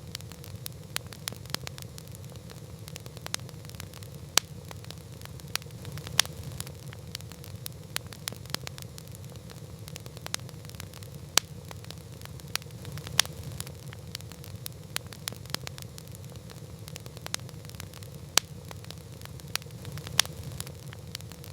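Wood campfire crackling: a dense run of small snaps and pops, with a sharper, louder crack every second or two, over a low steady rumble.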